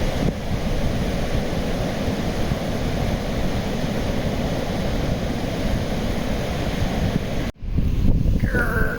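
Steady wind and road noise of an open-top Jeep driving at speed, with the wind buffeting the microphone. It cuts off abruptly near the end, where a short, different sound follows.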